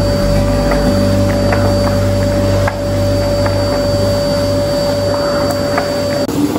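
Vacuum cleaner running with a steady motor whine over its rushing noise, with scattered small clicks, cutting off near the end.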